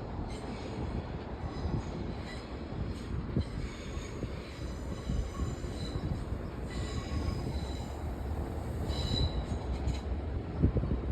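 İZBAN electric commuter train running on the rails, its wheels squealing in thin high tones that come and go over a steady low rumble, the squeal strongest about nine seconds in.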